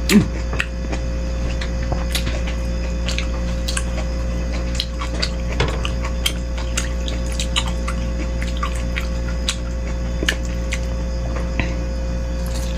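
Close-miked eating sounds of bakso meatball soup: irregular small wet clicks and smacks of chewing and slurping, over a steady hum.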